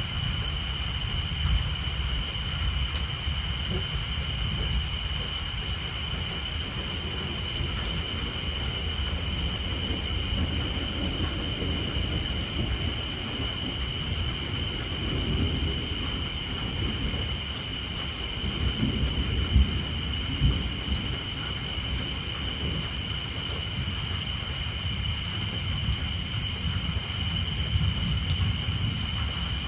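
Low rolling thunder rumbling under steady rain on a tin roof, the rumble swelling about halfway through. A constant high-pitched trilling chorus of tree frogs runs over it.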